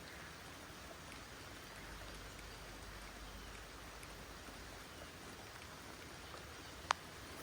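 Steady rain falling, a faint even patter. One sharp tick near the end.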